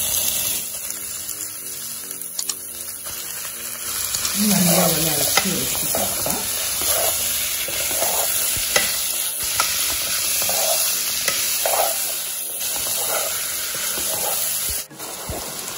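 Raw boneless chicken pieces sizzling in hot oil with sautéed onions in a pan, stirred with repeated scraping strokes against the pan.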